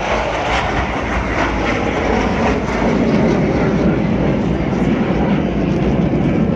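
Jet aircraft engines roaring as display jets pass over during an aerobatic performance, a loud steady rushing noise that swells slightly a few seconds in.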